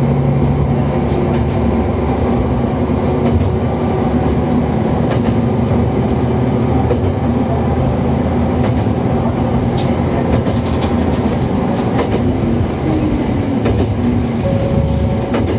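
Diesel railcar running along the line, heard from inside the cab: a steady engine drone with scattered clicks of the wheels over rail joints.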